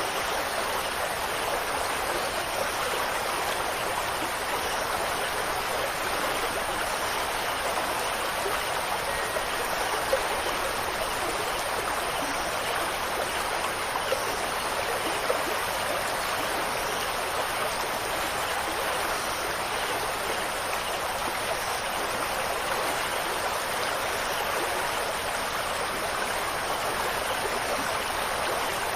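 Steady, unbroken rush of running water, with a few faint drips or ticks standing out now and then.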